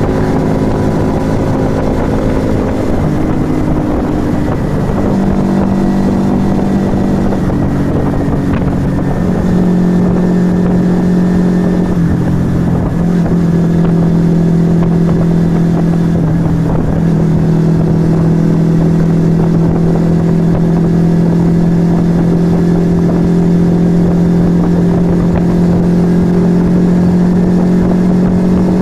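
Yamaha XV125 Virago's small air-cooled V-twin, fitted with an aftermarket Turbo Kit exhaust, running under way on the road. Its pitch shifts up and down in steps during the first half, then holds a steady cruising note from just past the middle on.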